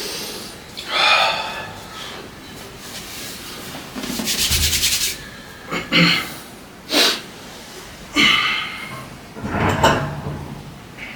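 A person breathing hard with forceful hissing exhalations during weight-training reps. About 4 s in there is a brief fast rattle, and around 6 and 7 s in there are two sharp knocks from the equipment.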